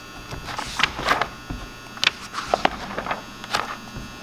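Pages of a paper catalog being flipped and handled: scattered short rustles and clicks over a steady faint electrical hum.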